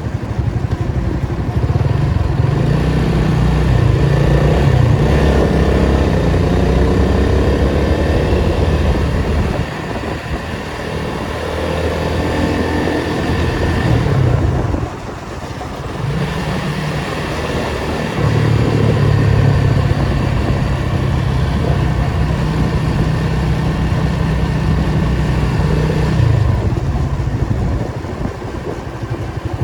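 Datsun 280Z's straight-six engine pulling under load in traffic. It drops off abruptly about halfway through, pulls again, then eases off near the end.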